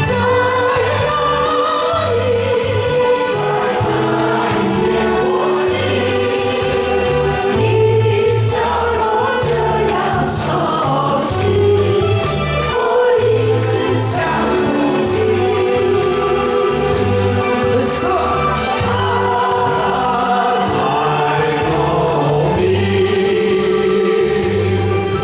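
Live singing over an amplified backing track with a steady bass beat, several voices singing the melody together.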